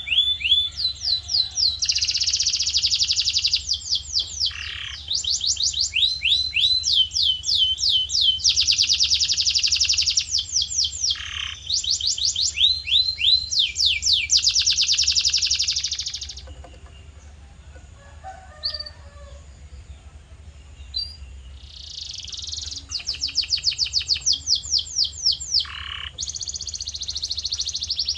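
Male canary singing: long runs of rapidly repeated sweeping notes alternating with fast buzzing trills, broken by a quieter pause of a few seconds about halfway through, over a steady low hum.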